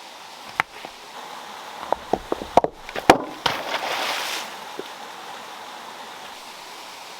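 Stones knocking and clattering together in a quick series of sharp knocks, then a short rushing splash of water about four seconds in, over a steady flow of running water.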